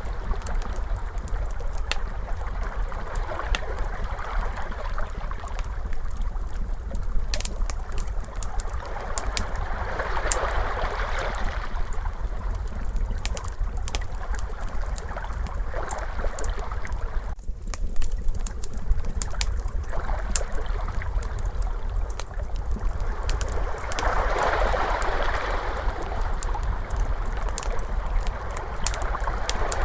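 Crackling fire with scattered sharp pops, layered over ocean waves washing in and out. The waves swell about a third of the way in and again near the end, over a steady low rumble.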